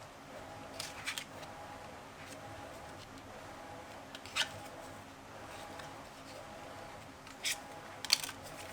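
A few short, sharp clicks and light handling noises at irregular intervals from leatherworking at the bench, over a faint steady hum; the loudest come near the end.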